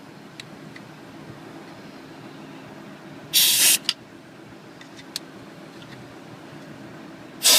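Two short blasts of compressed air from an air blow gun, one about three seconds in and one near the end, each about half a second long, clearing debris out of bolt holes, over a steady low hum.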